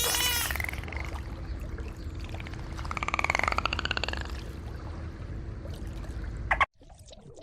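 A rapidly pulsed animal call about three seconds in, over a steady low rumble; the sound cuts off suddenly near the end.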